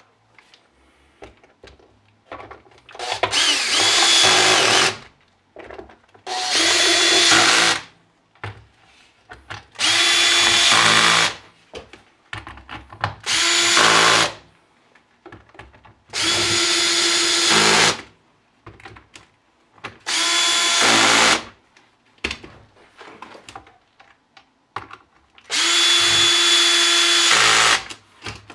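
Cordless drill-driver running in seven short bursts of one to two seconds each, with a steady whine, tightening screws. Small clicks and handling noises fall between the bursts.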